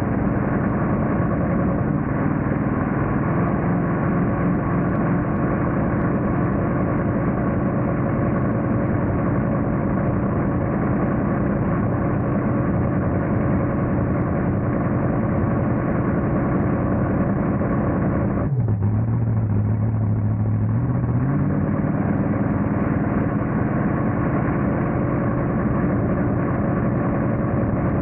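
Monster truck engine running steadily. About 18 seconds in the sound abruptly turns duller, leaving a deep low drone for about three seconds, then the fuller engine sound climbs back.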